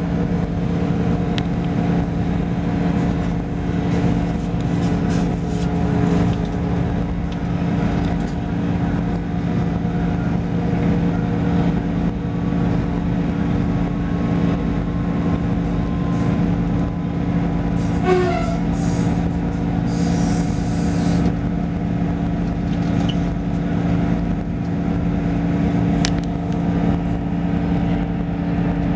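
A train running, heard from inside the carriage: a steady low drone with the rumble of the wheels and a constant hum, and one brief sharp noise about eighteen seconds in.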